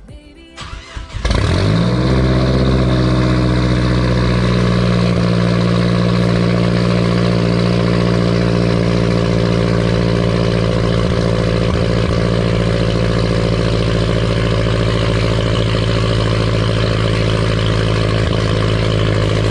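Mazdaspeed3's turbocharged 2.3-litre four-cylinder engine cold-starting through an unmuffled exhaust. It catches about a second in, the revs climb briefly, and then it holds a loud, steady fast idle.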